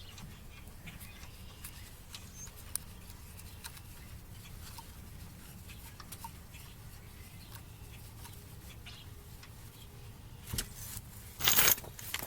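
Faint steady low hum with scattered light clicks, then two louder, harsher noises near the end, the second lasting about half a second.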